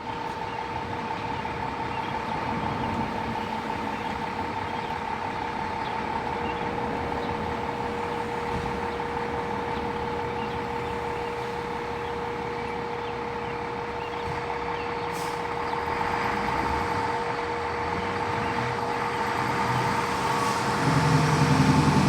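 Fire engine's diesel running, with a steady high-pitched tone throughout. Near the end the engine note gets louder as the truck begins to pull out.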